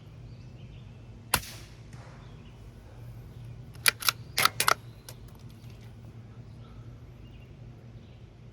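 Savage Mk II bolt-action .22 LR rifle with a Dead Air Mask suppressor firing one CCI Suppressor 45-grain subsonic round about a second in: a single sharp crack with a short ring after it. About four seconds in comes a quick run of four or five metallic clicks as the bolt is worked to chamber the next round.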